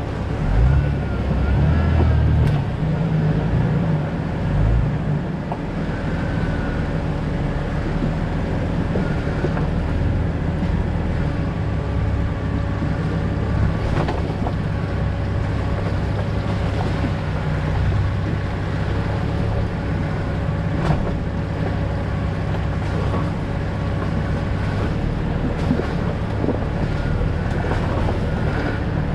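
2000 Jeep Cherokee XJ driving: a steady low rumble of engine and tyre noise, with a few scattered clicks or knocks, such as rattles over bumps, about 14 and 21 seconds in.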